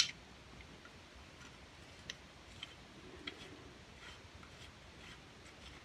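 Small metal clicks of a screw being threaded into the barrel hinge pin of a Bond Arms derringer: one sharp click at the start, then faint ticks about every half second from two seconds in.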